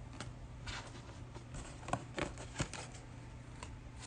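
Panini Mosaic basketball trading cards being handled and slid past one another by hand. It comes out as faint, scattered soft clicks and short brushing sounds.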